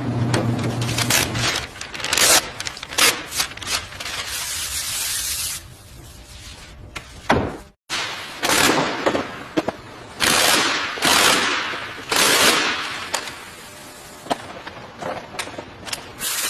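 A quick run of workshop noises on a car being restored: sharp knocks and clicks, short spells of hissing, and a steady low hum in the first second or so.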